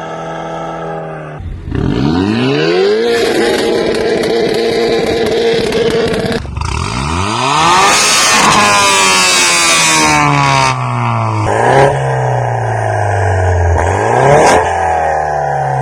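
Vehicle engine revved hard through a modified, loud aftermarket exhaust. It climbs and holds at high revs for several seconds, climbs again and falls away, then gets two short blips that drop back toward idle.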